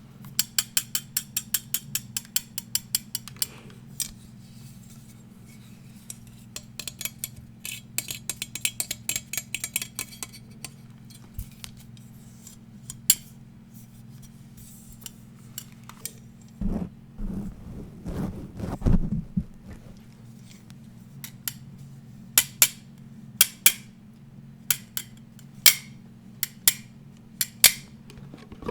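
Fast tapping on hard objects: quick runs of sharp clicky taps, several a second, then a bout of handling and rubbing with a few low thumps about two-thirds through, and separate sharp taps near the end. A low steady hum lies under it.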